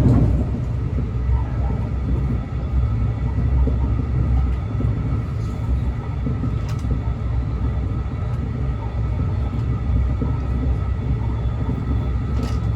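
Steady low rumble of a train, with faint steady tones above it.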